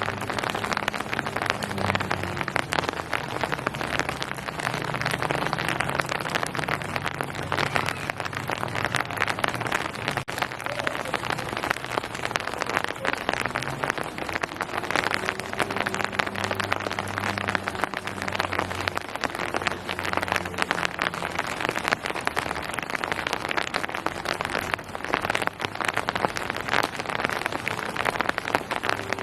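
Steady rain: a dense, even patter of many drops hitting surfaces, with a faint low drone coming and going underneath.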